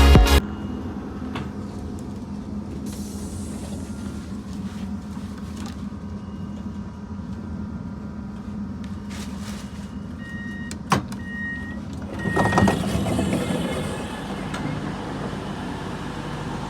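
Steady rumble and hum of a train heard from inside the carriage. About two-thirds of the way through there is a sharp click and a few short high electronic beeps, then the noise swells louder for a couple of seconds.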